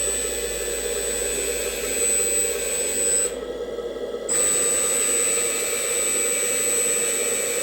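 Electric hydraulic pump of an RC 4x4 dump truck running with a loud, steady whine while the hydraulic cylinder tips the bed; the sound drops off for about a second some three seconds in, then picks up again.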